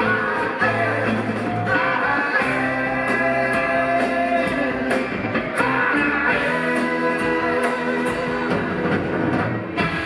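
Live rock band playing an extended instrumental passage: electric guitar, bass, keyboards and drums, with cymbals keeping time.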